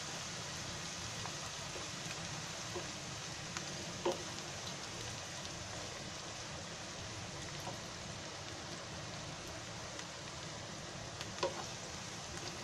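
Chopped onions and ginger-garlic paste sizzling in oil in a non-stick frying pan, a steady hiss, while a wooden spatula stirs them, with a few light knocks of the spatula against the pan.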